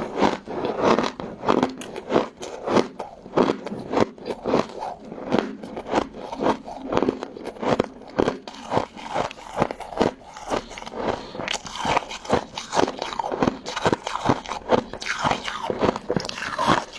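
Close-miked biting and chewing of crunchy golden crystal ice dessert: a continuous run of sharp crunches, several a second.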